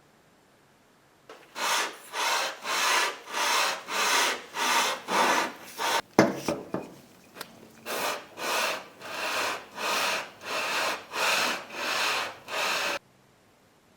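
A hand tool worked back and forth on wood in even rasping strokes, about two a second. There is a sharp knock and a short pause midway, then a second run of strokes that stops abruptly.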